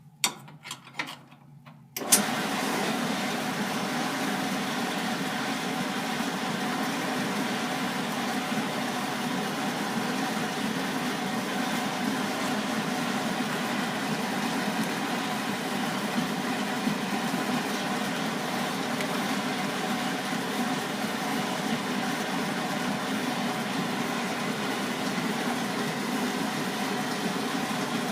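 Washing machine: a few clicks, then about two seconds in it starts up with a steady, even running noise that holds without change.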